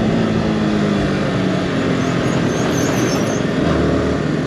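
Yamaha R15 V4's single-cylinder engine running under way, its pitch easing down slightly in the first couple of seconds.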